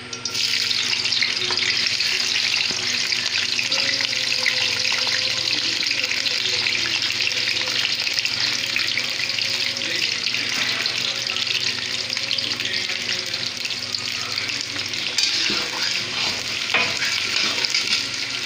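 Chopped capsicum sizzling in hot oil in a kadai. The sizzle starts suddenly as the pieces go into the oil and then runs on as a steady hiss.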